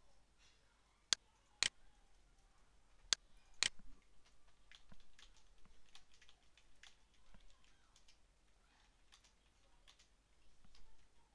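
Four sharp clicks in the first four seconds, then soft, irregular typing on a computer keyboard.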